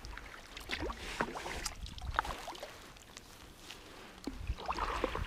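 Kayak being paddled: small splashes and drips of the paddle in the water with light knocks, and a longer swish of water near the end.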